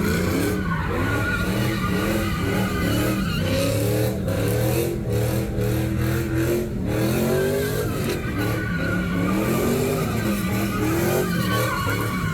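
Car engine revving up and falling back over and over during a burnout, with tyres spinning and squealing on the pavement.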